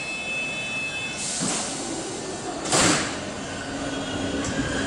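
Trenitalia regional train at the platform. Steady high tones are followed by a short hiss of air, then a louder hiss about three seconds in, the loudest sound here. After that comes a low, building hum as the train moves off.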